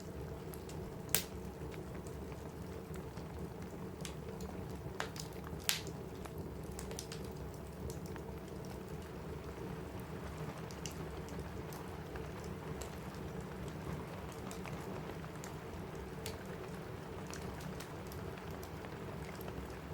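Steady rain on a roof with the sharp pops and crackles of a wood fire over it; the loudest pops come about a second in and near six seconds.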